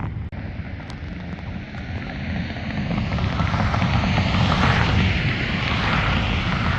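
A propeller airplane's engine running, growing louder from about two seconds in and peaking in the second half. Wind rumbles on the microphone throughout.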